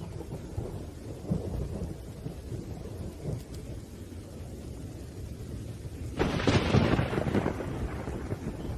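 Thunderstorm with rain: low, continuous thunder rumbling, then a sharp, louder thunderclap about six seconds in that fades over a second or two.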